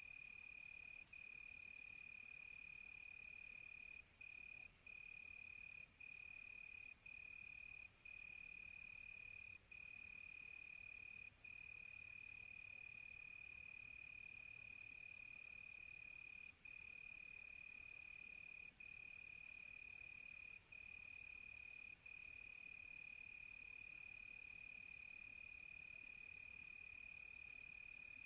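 Crickets chirring in a continuous high trill, broken now and then by brief gaps. A fainter, higher insect buzz comes and goes behind it.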